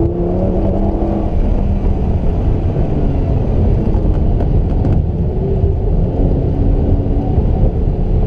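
Lamborghini engine heard from inside the cabin while driving: the engine note rises, drops sharply right at the start, then settles into a steady low rumble of engine and road noise.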